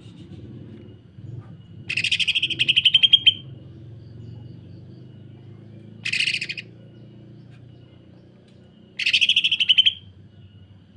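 Green leafbird (cucak ijo) giving rough, rapid rattling calls, the dense 'sewing machine' notes: three bursts, about a second and a half near 2 s in, a short one near 6 s, and about a second near 9 s.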